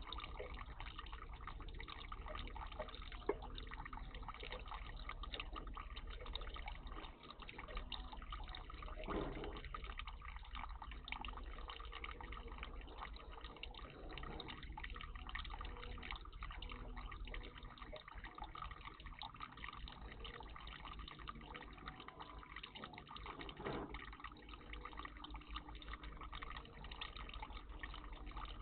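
Water trickling and dripping steadily in a garden bird bath, with a sharp click about three seconds in.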